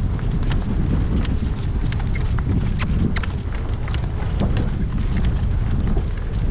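Wind buffeting the microphone with a steady low rumble, over the clip-clop of a harnessed horse's hooves and scattered sharp clicks.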